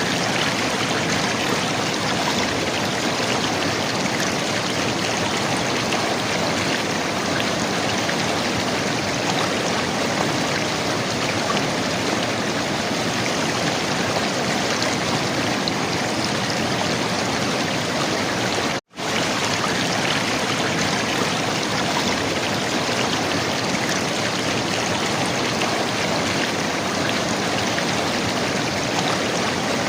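River water flowing and gurgling in a steady rush, broken once by a momentary dropout to silence about two-thirds of the way through.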